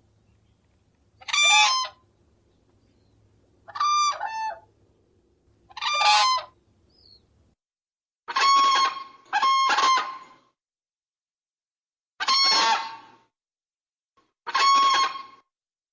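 Common crane calling: seven loud calls, each under a second long, spaced about one to two seconds apart, with two coming close together a little past the middle.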